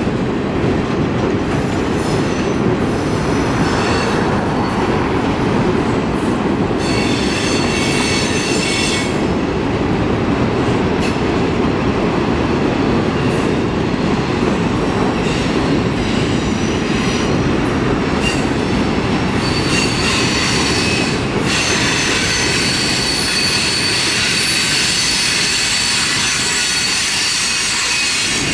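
Freight cars rolling past on curving track: a steady rumble of steel wheels on rail, with high-pitched wheel squeal coming in briefly about a quarter of the way through and again steadily for the last third.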